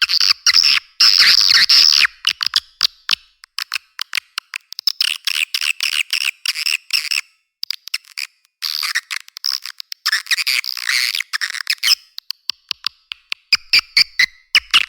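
Recorded swiftlet calls played as a lure sound for a swiftlet house: rapid trains of clicks and chirping twitters in bursts of a second or two, with short gaps between them. The sound is high-pitched with no low end.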